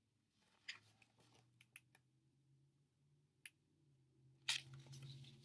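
Near silence with a few faint, sharp clicks, and a soft rustle near the end, from handling the pages of a picture book.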